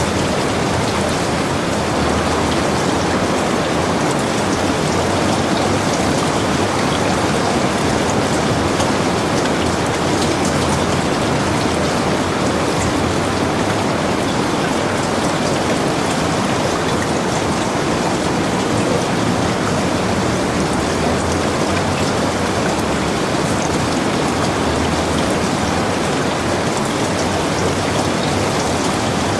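Heavy rain falling steadily and evenly, a dense hiss with fine drop ticks, unchanging in strength.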